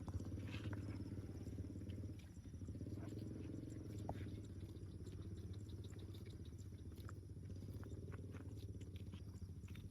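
Cattle lowing, long low-pitched moos: one ends about two seconds in and another follows and carries on, with scattered small clicks and ticks.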